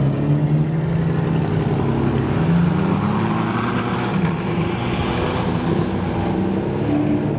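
Supercar engine running at low revs, with a steady low drone that steps up a little in pitch about two to three seconds in.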